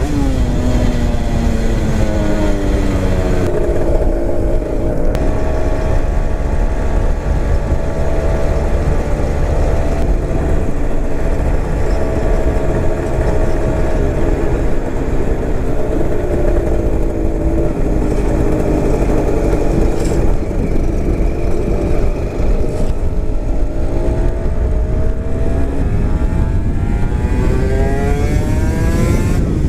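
Honda NSR250R two-stroke V-twin with expansion-chamber exhausts running under way, its engine pitch falling off early on, holding through the middle and climbing again near the end as the throttle is worked. A heavy low rush of wind noise lies under the engine throughout.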